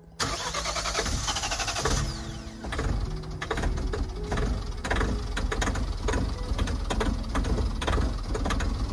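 Mahindra Thar's diesel engine cold-starting in freezing weather on its third crank attempt: the starter cranks and the engine catches, then runs with a dense, uneven clatter of knocks.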